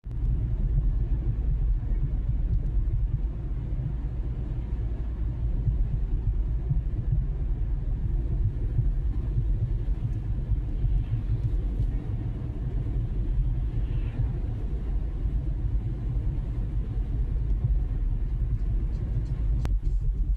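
Car driving steadily along a road: a constant low rumble of engine and tyres, with a single sharp click near the end.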